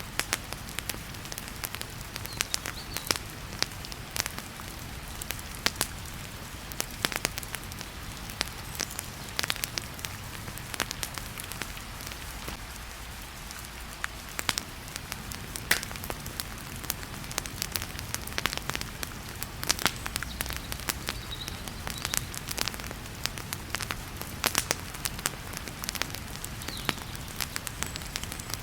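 Wood fire crackling in a fireplace, with frequent irregular pops and snaps, over the steady hiss of heavy rain.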